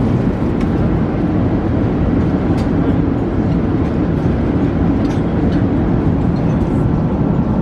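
Steady airliner cabin noise inside an Airbus A380: an even, deep rumble of engines and airflow.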